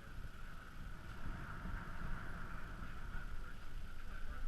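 Wind rumbling on the microphone over the steady rush of a sailboat moving through the water under sail.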